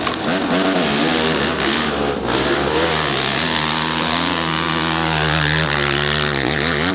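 Dirt bike engine revving hard on a hill climb, its pitch wavering up and down as the throttle is worked, with a brief drop in revs near the end.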